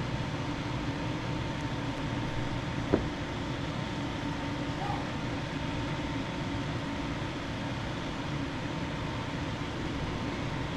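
Steady mechanical hum, like a fan running, with a faint whine held on one pitch, and a single sharp click about three seconds in.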